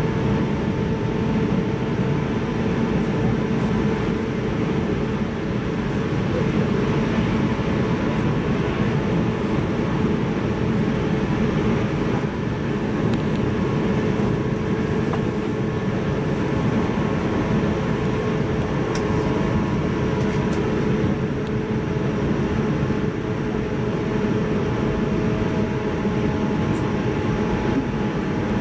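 Interior running sound of a JR 185-series electric multiple unit at a steady speed: a continuous rumble of wheels on rail with a steady hum, heard inside the passenger car.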